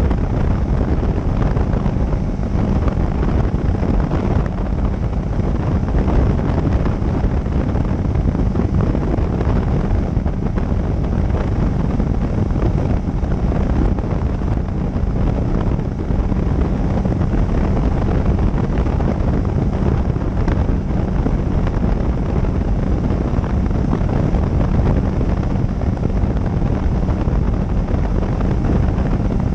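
Steady wind buffeting a motorcycle-mounted camera microphone at riding speed, with the motorcycle's engine and road noise running underneath.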